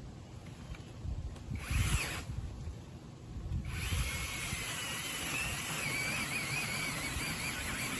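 TaskStar 8-inch cordless brushless mini chainsaw running: a short burst of motor whine, then about a second and a half later a longer steady run with its pitch wavering.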